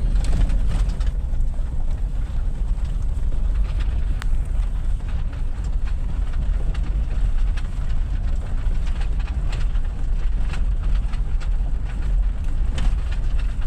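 Vehicle driving along a rough road: a steady low rumble with scattered clicks and rattles.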